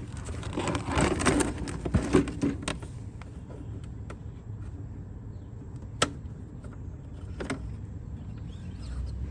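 Handling noises from a tipped-over lawnmower and its oil pan: a quick run of clicks, knocks and rattles in the first three seconds, then two single sharp clicks a second and a half apart. A steady low rumble lies underneath.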